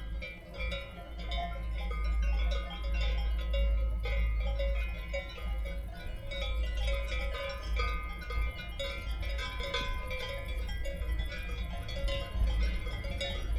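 Bells on grazing alpine livestock clanking irregularly, many at different pitches overlapping, over a low wind rumble on the microphone.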